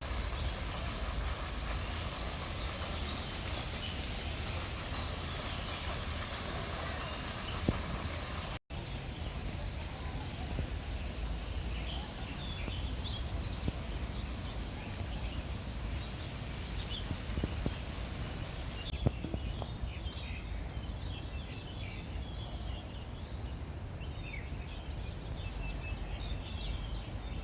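Scattered short bird chirps and calls over a steady background hum with a low rumble, the chirps coming more often in the second half.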